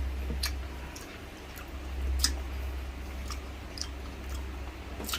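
A person chewing tender braised pork hock (pork pata humba) close to the microphone, with scattered wet mouth clicks and smacks, roughly one or two a second, over a low rumble that swells and fades.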